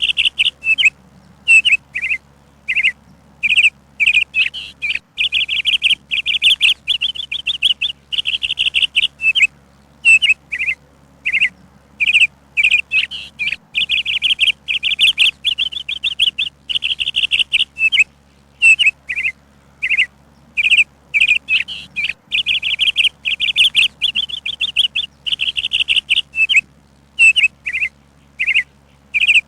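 A bird chirping almost without pause: quick runs of high chirps and short rapid trills, broken by brief gaps.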